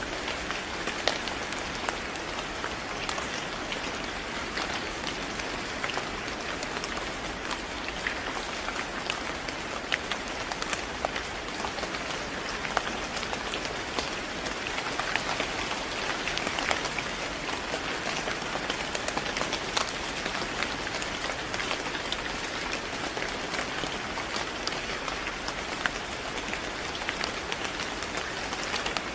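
Steady rain falling on a surface, a dense even hiss dotted with the sharp ticks of individual drops.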